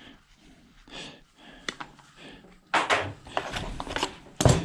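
Hands working at a scrapped ice maker's metal parts: faint scraping, then a clattering spell about three seconds in and a sharp knock near the end.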